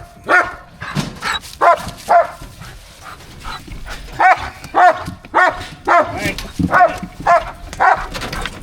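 A dog barking over and over, about two barks a second, with a short lull partway through.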